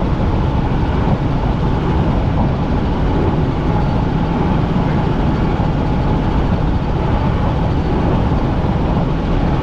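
Helicopter in flight heard from inside the cabin: a loud, steady engine and rotor noise with a faint, steady whine on top.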